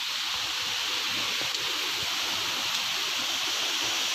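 Steady rushing of water at a natural waterfall, even and unbroken.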